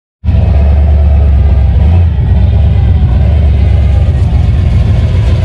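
A car engine running loudly and steadily with a low rumble, cutting in abruptly just after the start.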